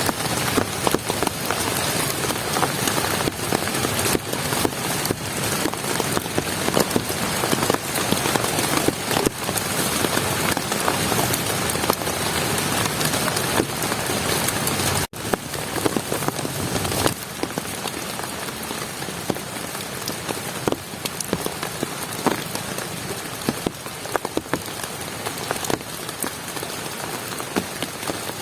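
Heavy rain falling, a dense steady hiss with many individual drops striking close by. There is a brief dropout about halfway through, and the rain is a little quieter after it.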